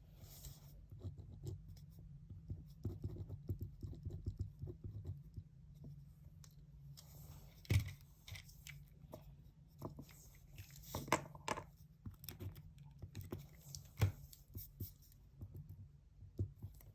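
Pen scratching on paper in short strokes, with paper rustling and a couple of sharper knocks on the desk, about eight and fourteen seconds in, over a steady low room hum.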